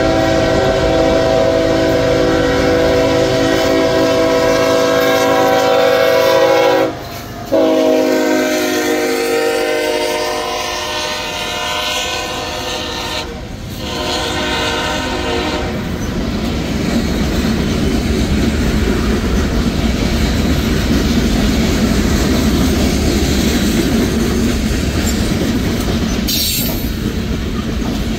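Freight locomotive's air horn sounding two long blasts, the second ending about sixteen seconds in, as the locomotives pass. Then the freight cars roll past, their wheels clattering over the rail joints.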